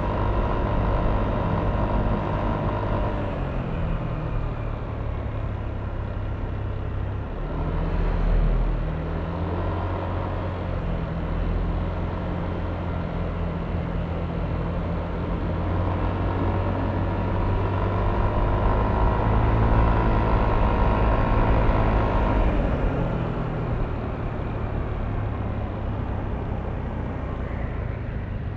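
Yamaha Aerox V3 scooter's 155 cc single-cylinder engine running under way, with road and wind noise. The engine eases off a few seconds in, picks up again about eight seconds in, holds steady for a long stretch, then eases off and picks up once more near the end.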